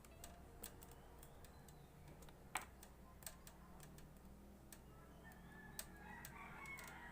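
Faint, scattered light clicks and taps over near silence, with one sharper click about two and a half seconds in.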